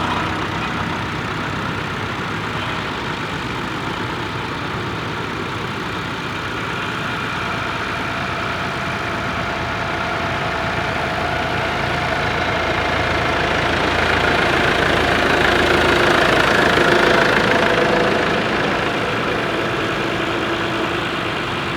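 Vintage tractor engine running steadily, getting louder as the tractor comes close about two-thirds of the way through, then easing off again as it moves away.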